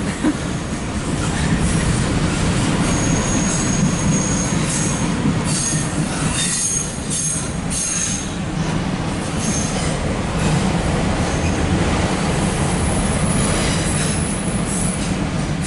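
Empty CSX autorack freight cars rolling past with a steady rumble and clatter of wheels. Thin, high wheel squeal comes and goes, a few seconds in and again near the end, as the train crosses over from one track to another.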